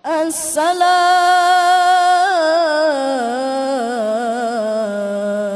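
Male Quran reciter chanting in tajwid style: after a sharp 's' he holds one long ornamented melismatic note that wavers and steps down in pitch about two and three seconds in.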